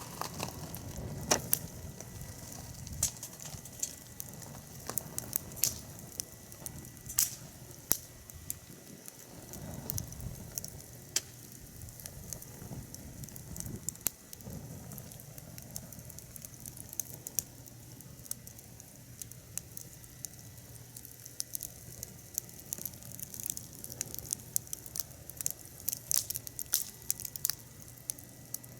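Firewood burning in a fire pit: irregular sharp crackles and pops over a soft hiss.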